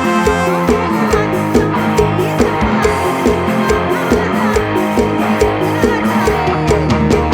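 Live band playing an instrumental passage of a mor lam medley: plucked guitar melody over bass and a steady drum-kit beat, heard straight from the monitor mix.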